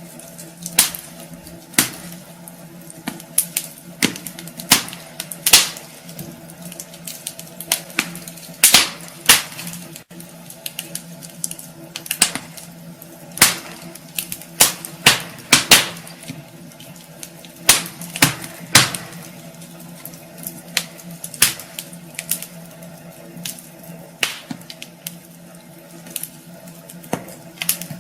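Wood fire in a fireplace crackling, with sharp irregular pops and snaps, one to three a second, some in quick clusters, over a faint steady hum.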